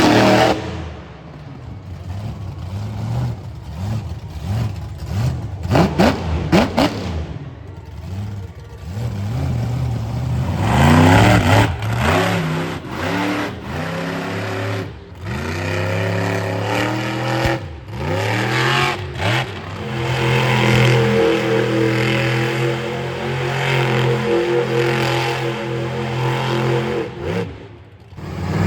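Monster truck engine revving hard in repeated bursts, its pitch climbing and falling over and over, then held at high revs for several seconds in the last third before dropping away near the end.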